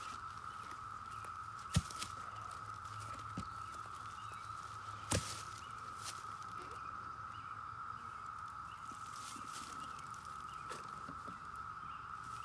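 A steady high-pitched hum runs under light rustling and footsteps, with two sharp knocks about two and five seconds in.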